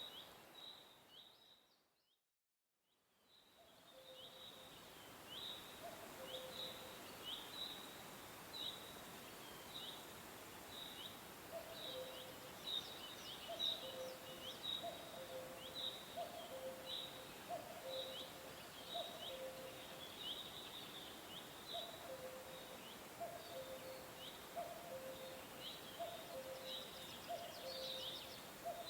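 Birds chirping: short, high downward chirps about once a second over a steady hiss, joined from about six seconds in by a lower two-note call repeating roughly every second. The whole track fades out to silence about two seconds in and fades back up, as at a loop join.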